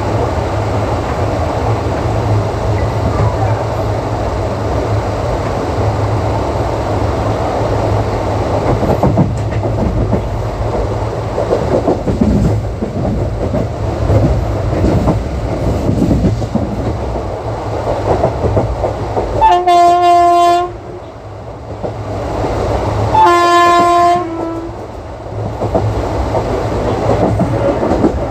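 Indian ICF passenger coaches running at speed, with steady rumble and clickety-clack of the wheels over rail joints. About two-thirds of the way in, the WAP-4 electric locomotive's horn sounds two long blasts a few seconds apart, the second slightly longer.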